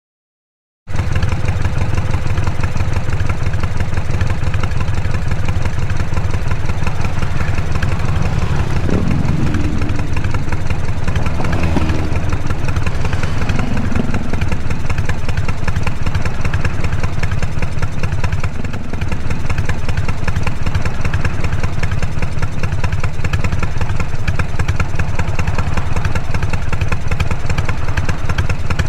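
Harley-Davidson Shovelhead V-twin engine running steadily, with a brief dip in level about two-thirds of the way through. The sound starts about a second in.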